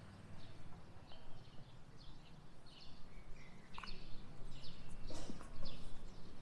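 Small birds chirping in short calls that come more often in the second half, over a steady low background rumble.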